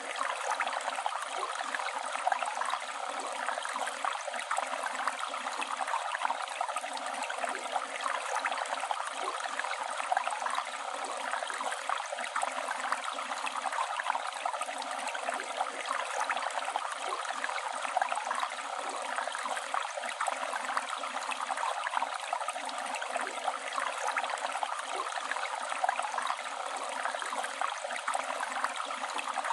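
Flowing river water, a steady rushing and gurgling.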